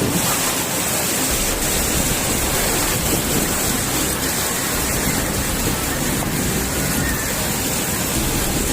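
Storm winds with rain in a severe windstorm, a steady loud rushing noise with no let-up.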